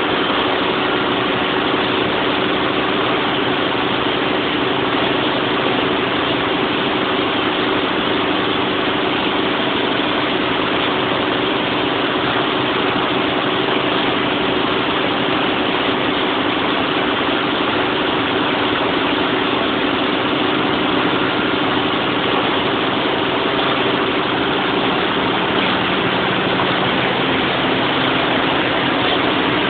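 Large diesel generator set running steadily: a loud, even engine drone with a steady hum, unchanged throughout.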